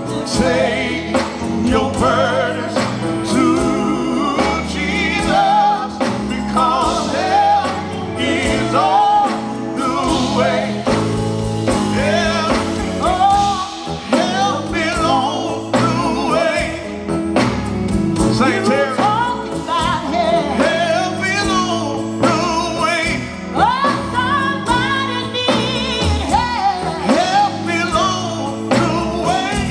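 Live gospel quartet music: voices singing over a band accompaniment.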